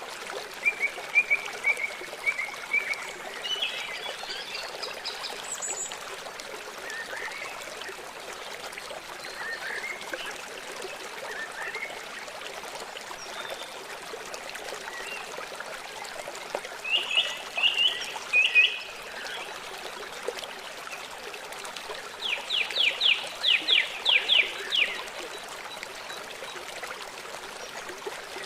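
Small songbirds chirping and calling over a steady rush of running water. Near the end comes a quick trill of rapidly repeated notes.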